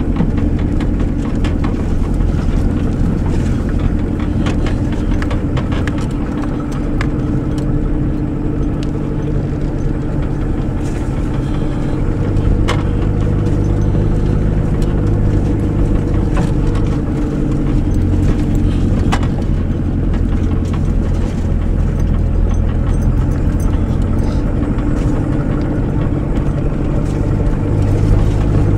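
A vehicle's engine running steadily while it drives slowly along a rough dirt track, heard from inside the cab. A few sharp clicks and knocks come from the bumpy ride.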